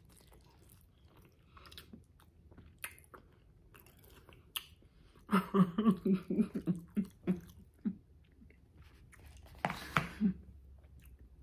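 Chewing and biting into baked pig feet, with faint wet mouth clicks. About halfway through comes a run of short laughs, the loudest part, then a brief vocal sound near the end.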